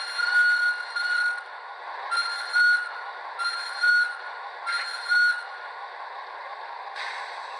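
Sound decoder of an HO-scale model of a CFR 060 DA diesel locomotive, played through the model's small speaker with no bass: a diesel running sound with five short horn toots, two close together and then three about a second and a half apart, and a short hiss near the end.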